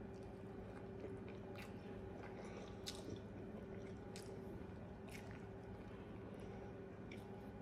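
Faint close-up chewing and biting of a sandwich: soft wet mouth clicks about once a second over a steady low room hum.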